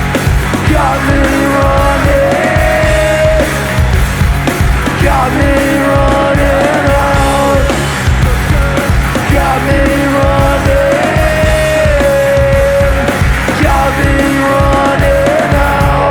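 Live punk/hardcore rock band playing an instrumental passage: distorted electric guitars, bass and drums, with a bending guitar line that repeats every few seconds over a steady pounding beat.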